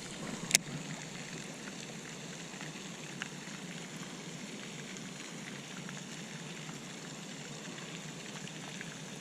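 Steady rushing wind noise, with one sharp click about half a second in and a faint tick about three seconds in.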